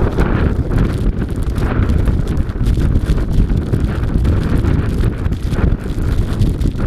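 Strong wind buffeting the microphone: a loud, gusty low rumble that swells and dips unevenly.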